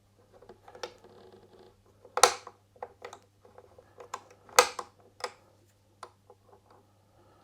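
Small hard parts being handled and set down: a series of sharp clicks and knocks, two of them much louder, a couple of seconds apart. A faint steady hum runs underneath.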